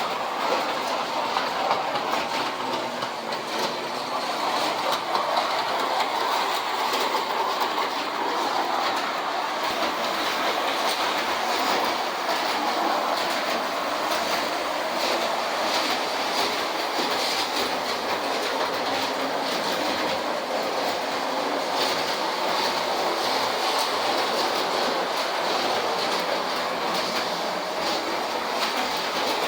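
A pair of Lionel standard-gauge toy electric summer trolleys running steadily around the track: the continuous sound of their motors and wheels on the metal rails.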